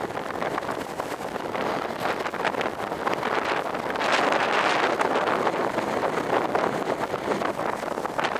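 Wind gusting through leafy trees, the leaves rustling, with a stronger gust about halfway through.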